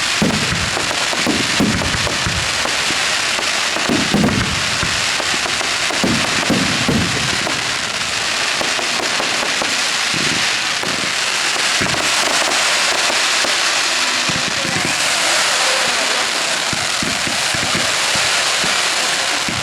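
Professional fireworks display: aerial shells bursting in a run of repeated booms over a continuous dense crackle. The booms thin out after about eight seconds, and the crackling thickens near the end.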